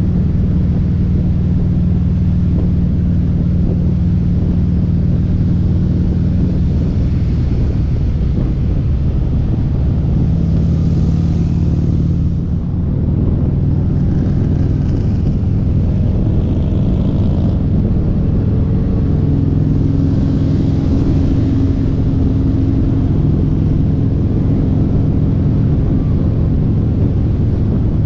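Harley-Davidson V-twin motorcycle engine running under way with a loud exhaust, its pitch stepping up and down a few times as the engine speed changes.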